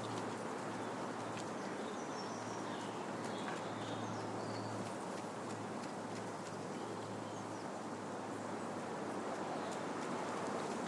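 Wind blowing steadily through trees, the leaves rustling, with a few faint bird chirps a couple of seconds in.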